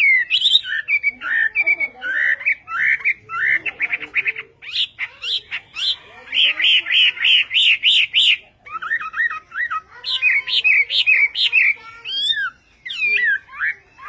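A hwamei (họa mi) singing a long, loud, varied song of whistled phrases. It includes a run of quick repeated notes in the middle, with brief pauses between phrases.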